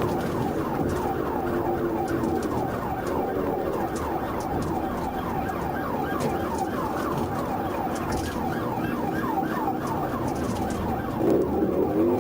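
Police car siren on a fast yelp, its pitch sweeping up about four times a second, over the sound of a vehicle. A louder, lower swell comes in near the end.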